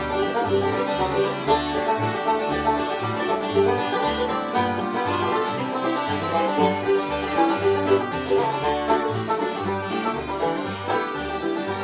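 Bluegrass band playing an instrumental intro: banjo rolls and guitar over a walking upright bass.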